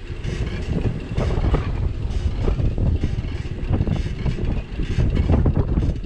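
Wind buffeting and low rumble on a bicycle-mounted action camera's microphone while riding, with frequent rattles and knocks from the bike over the street surface.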